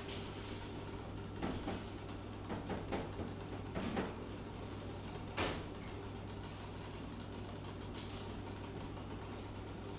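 A few light knocks and clicks, the sharpest about five seconds in, over a steady low hum.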